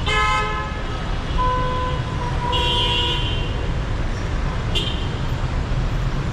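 Busy city traffic with a steady engine rumble and car horns tooting: a short loud honk right at the start, then two more shorter honks about one and a half and three seconds in.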